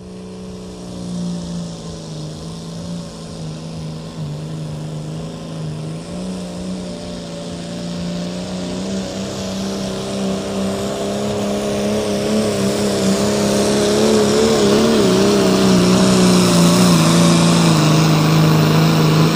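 Turbocharged John Deere 3130 Pro Sport pulling tractor, its engine running hard at a fairly steady pitch. The engine grows steadily louder, and a hiss in the upper range builds over the second half.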